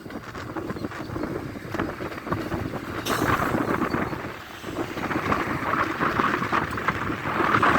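A train passing, a noisy rumble with dense clattering that dips briefly in the middle and builds again near the end, with wind buffeting the microphone.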